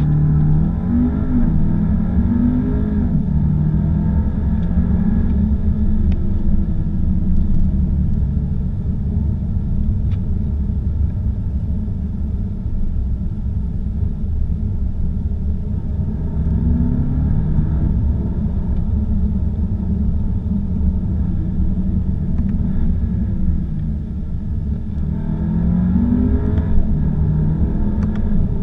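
Volkswagen Arteon's 2.0-litre turbocharged four-cylinder engine pulling under acceleration over a steady low road rumble, its pitch climbing and dropping back at upshifts several times.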